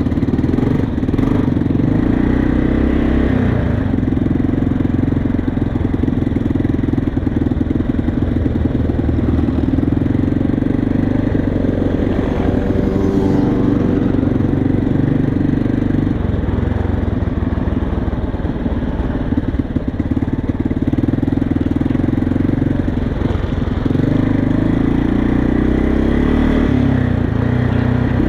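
Motorcycle engine running steadily close by, its pitch shifting a few times.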